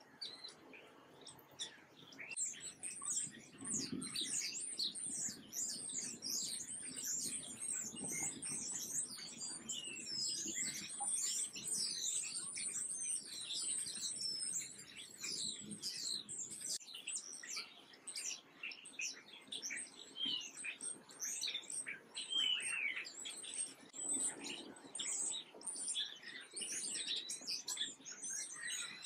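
Birdsong: many small birds chirping and twittering in a dense chorus of short, quick, high calls, which fills in about two seconds in.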